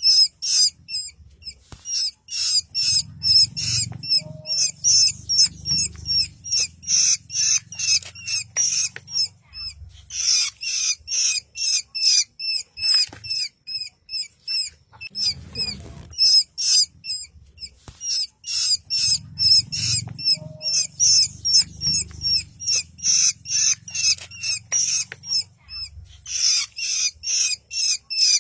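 Owl chick calling: fast runs of high, thin chirps, several a second, in long bouts broken by short pauses, with a low rumble underneath.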